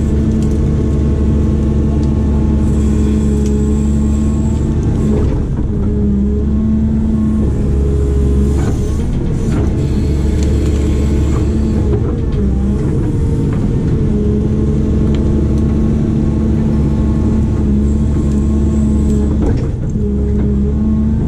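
Diesel engine of a heavy earthmoving machine running steadily under working load, with a steady whine that cuts out and returns several times as the load changes, and a few sharp knocks.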